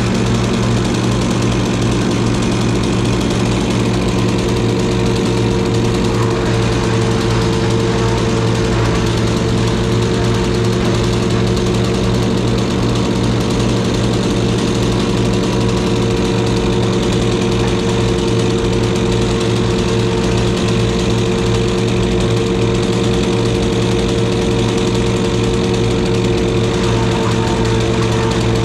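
A combustion engine running at a steady speed, with an even, unchanging note throughout.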